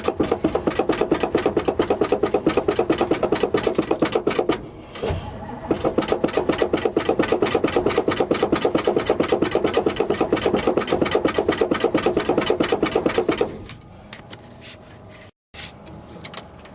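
1970 GMC truck's engine being cranked over by the starter on a cold start, with open exhaust manifolds: a fast, even chugging of compression strokes that does not catch. It cranks for about four and a half seconds, pauses briefly, cranks again, then stops about three quarters of the way through.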